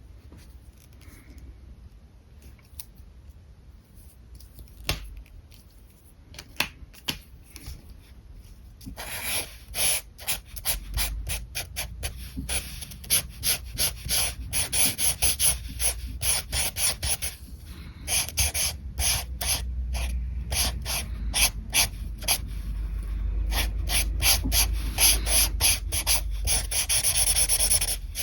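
Alcohol marker nib rubbing across paper in quick back-and-forth colouring strokes: a few faint strokes at first, then from about nine seconds in a fast, dense, louder run of strokes.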